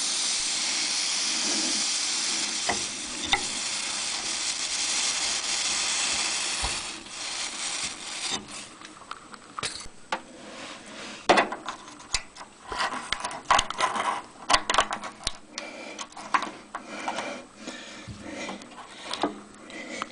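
A steady hiss for the first six seconds or so, then irregular scraping, rubbing and sharp clicks as a red-hot steel file is worked into the broken drain valve stub in the water heater tank to burn and chip it out.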